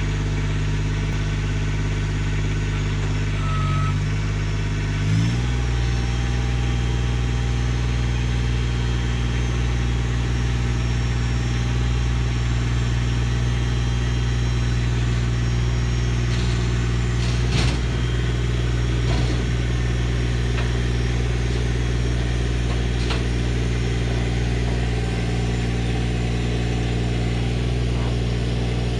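Workmaster 25S compact tractor's diesel engine running steadily. Its speed steps up about five seconds in and then holds there, and a couple of brief knocks come a little past the middle.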